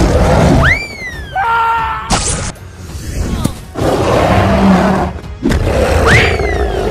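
Added action sound effects for a toy robot fight: noisy whooshes and impact hits, with twice a quick upward-then-slowly-falling whistle-like sweep and a short steady electronic tone, over music.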